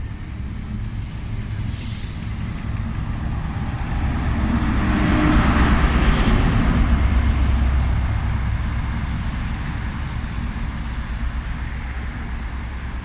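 Diesel HST with Class 43 power cars running as it pulls away. The heavy engine rumble builds to a peak about six seconds in, then slowly fades.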